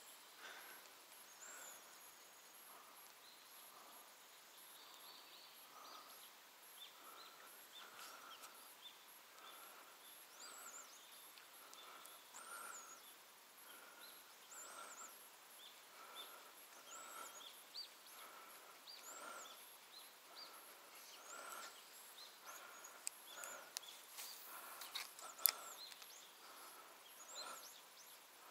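Faint outdoor ambience with birds calling: a low note repeats about once a second, and higher arching chirps come every couple of seconds. A few sharp clicks come near the end.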